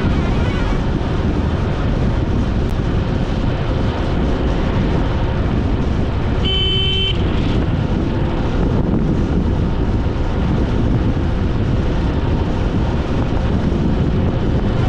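Steady rumble of wind and road noise from a vehicle ride on the road, with one short horn beep about halfway through.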